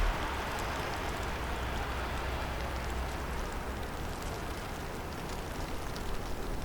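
Heavy snowstorm in a forest: a steady hiss of wind and falling snow, with faint scattered ticks and a low rumble underneath.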